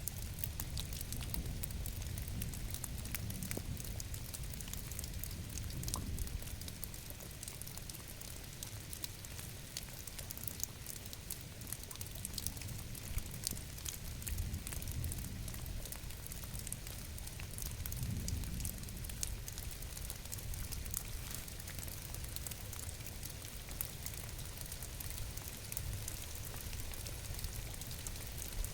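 Steady rain, with many small drops ticking on surfaces over a low, even rumble.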